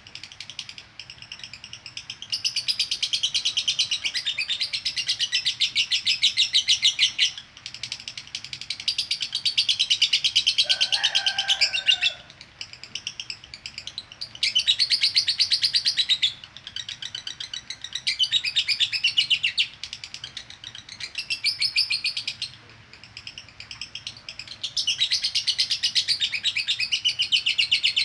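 Female lovebird chattering in long, rapid, high-pitched trills of several seconds each, broken by short pauses: the extended chatter that keepers call 'konslet'. A brief lower call sounds partway through.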